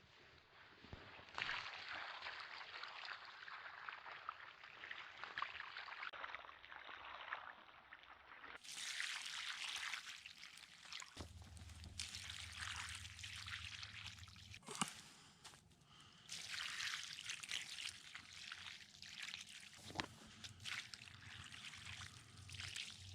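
Water trickling and dripping, with the sound changing abruptly a few times and a few faint clicks.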